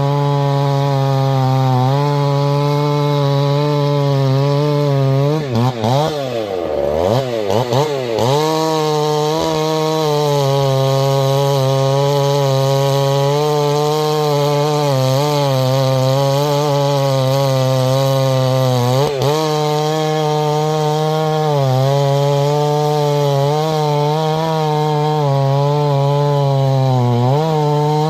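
Husqvarna 390 two-stroke chainsaw running at high revs, cutting through a Douglas fir log. About six to eight seconds in, the revs fall and climb back several times, with brief dips again later on.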